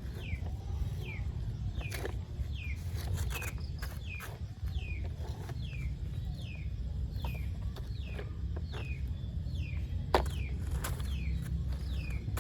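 A bird calling over and over, a short falling peep about twice a second, over a low steady rumble. A few clicks, and a sharp knock about ten seconds in.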